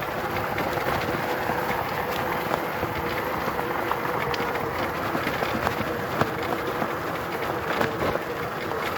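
Riding noise from an e-bike on the move: a steady rush of tyres rolling and air going past, with a faint steady whine and scattered small ticks.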